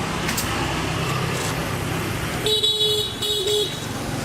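A vehicle horn honks twice in quick succession about two and a half seconds in, the first honk slightly longer, over a steady low hum.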